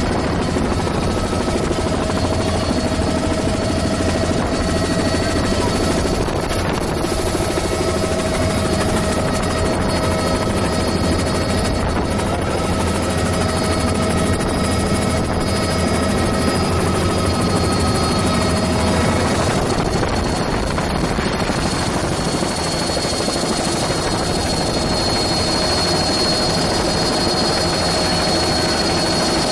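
Helicopter in flight, its rotor and engine running steadily, with a few steady whining tones over the noise.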